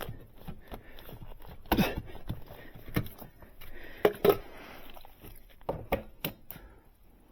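A handful of irregular knocks and thuds with some clatter, two of them in quick succession a little past four seconds in.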